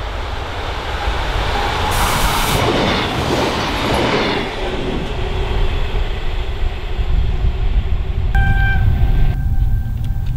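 Diesel railcar passing close by on a single track. Its running noise swells to a peak about two to four seconds in, with a pitch that slides downward as it goes by, then fades. Wind rumbles on the microphone throughout, and near the end there is a brief steady tone.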